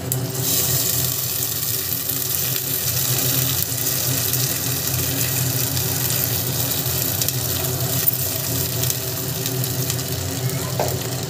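Split lentils (dal) sizzling steadily as they fry in hot oil in a pan, over a low, steady mechanical hum.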